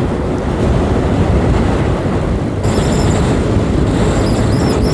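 A 125 cc motorbike riding at road speed: a steady, loud rush of wind and road noise with the engine running underneath. About two and a half seconds in, a faint, high wavering whine joins it.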